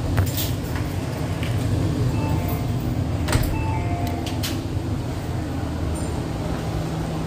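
Steady low hum of an MTR East Rail Line R-Train, with a few sharp clicks and knocks: one just after the start, another about three seconds in and a third about four and a half seconds in.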